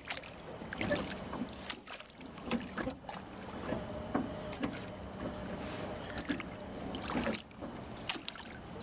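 Small boat moving through floodwater: irregular splashes and knocks of water and paddle against the hull, over a faint steady hum.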